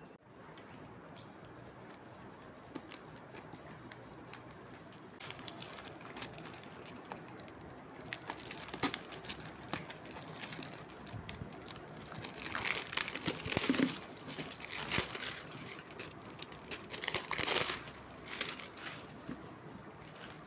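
Crinkling and rustling of something being handled, with scattered clicks and taps. It comes in bursts, busiest in the second half.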